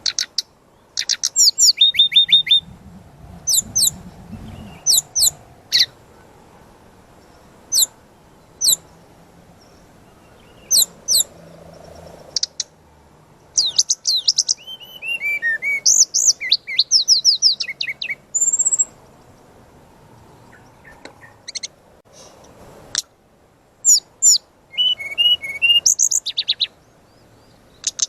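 Brown-chested jungle flycatcher (sikatan rimba dada coklat) singing a loud, varied song in short bursts: quick down-slurred whistles, rapid trills and chattering phrases, with brief pauses between phrases.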